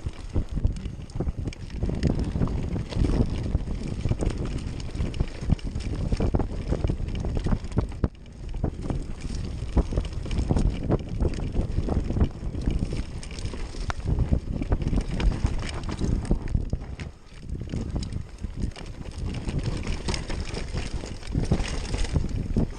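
Wind buffeting the microphone over a constant rattle of small knocks and clicks, the sound of a bicycle riding a rough trail.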